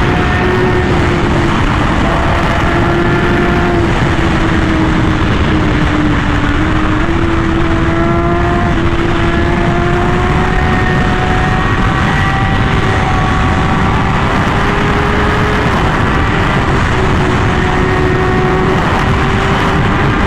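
Honda Fireblade SP's inline-four, with an SC-Project titanium exhaust, held at high revs at sustained high speed, its pitch sagging slightly about six seconds in and then climbing again, under heavy wind noise.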